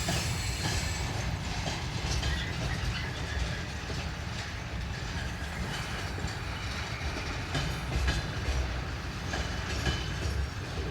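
Freight train wagons rolling past, their wheels clacking over the rail joints over a steady low rumble.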